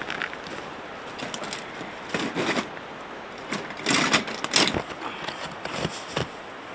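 Irregular scraping, rustling and knocking of things being handled by hand, with louder bursts about two seconds in and again around four seconds in.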